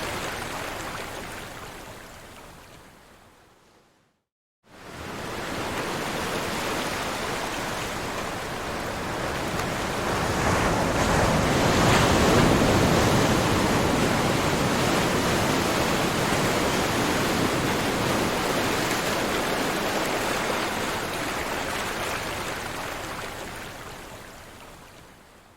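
Ocean waves rushing and washing ashore, a steady hiss of surf. It fades out to a brief silence about four seconds in, then fades back in, swells to its loudest near the middle and slowly dies away near the end.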